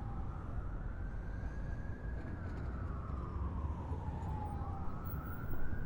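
An emergency vehicle's siren wailing, one slow rise and fall and then rising again near the end, over the steady low rumble of a subway train in motion.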